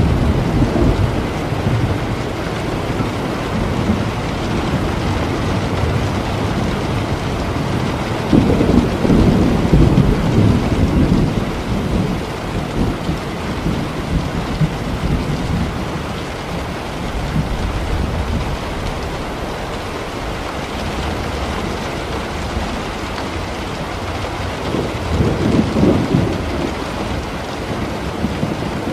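Steady rain falling during a thunderstorm, with low rolls of thunder swelling at the start, again about a third of the way in, and once more near the end.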